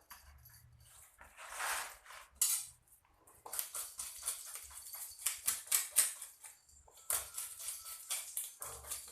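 Kitchen knife and utensil work: quick scraping strokes with light metallic clinks. There is a longer rough scrape about one and a half seconds in, and the strokes come thick and fast from about three and a half seconds on.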